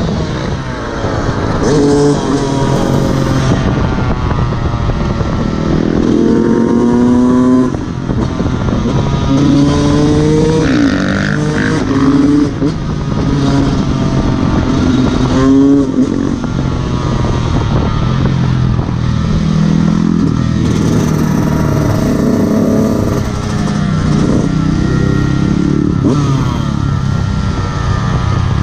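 Fantic XE 125 two-stroke enduro engine revving hard under acceleration. Its pitch climbs and drops back several times as the throttle is opened and gears are shifted.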